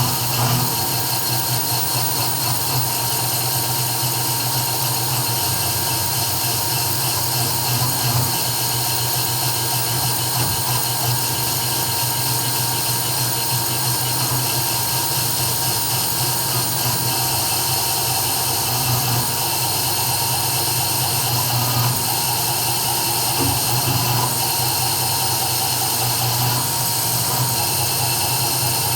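CNC 3040 desktop router running an engraving job: the spindle motor and cutter make a steady machine noise with fixed high whining tones over a low hum, unchanging throughout.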